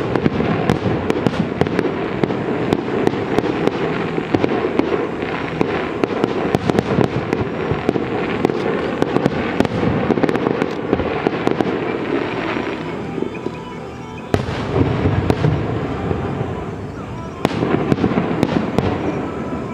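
Fireworks display: a dense, continuous run of bursts, pops and crackle, easing off about two-thirds of the way through before a fresh volley starts suddenly and another follows a few seconds later.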